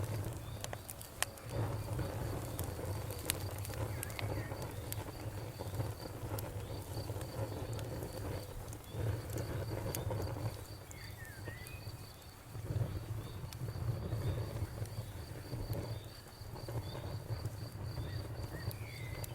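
Campfire crackling, with scattered sharp pops over a low, fluctuating rumble. A cricket chirps in a steady, evenly spaced rhythm behind it.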